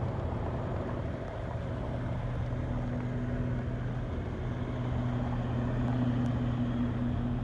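Parked garbage truck engines idling with a steady low hum.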